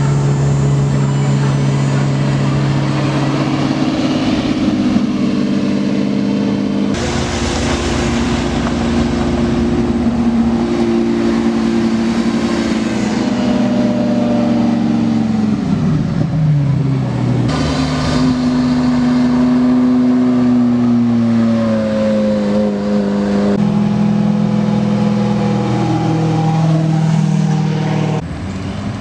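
Italian sports car engines running as the cars move, pitch rising and falling with the throttle. The sound changes abruptly several times, from one car to the next.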